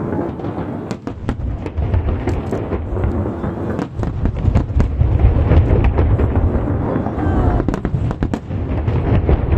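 Aerial fireworks shells bursting in quick succession over the sea: a continuous rumble of booms overlaid with many sharp crackles.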